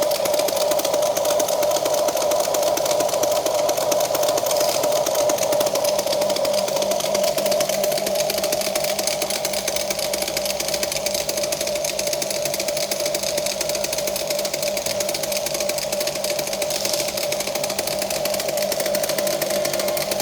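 Huina radio-controlled toy excavator's small electric motors and gearboxes whirring, a steady whine.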